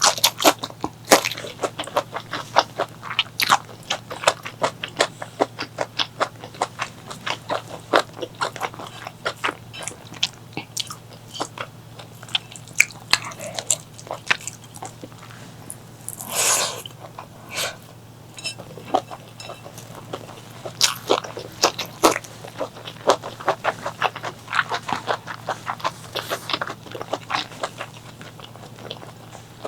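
Close-miked chewing and biting of food in a mukbang: a dense, irregular run of quick wet mouth clicks and crunches, with one longer, noisier sound about sixteen seconds in.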